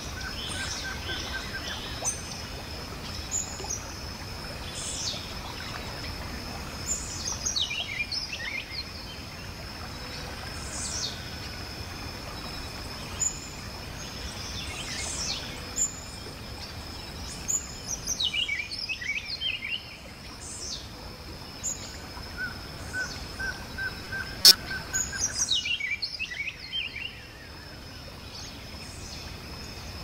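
Birds calling: bursts of quick chirps that sweep down in pitch, repeated every few seconds, over a steady high tone and an even background hiss. A single sharp click about two-thirds of the way through.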